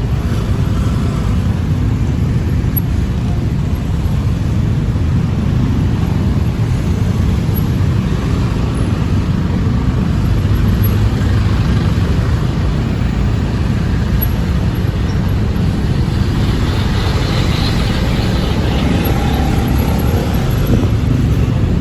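Steady city road traffic: a constant rumble of cars and motorbikes, with a louder stretch of passing-vehicle noise about three quarters of the way through.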